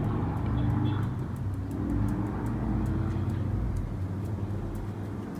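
Ice cream truck's engine running with a low, steady rumble.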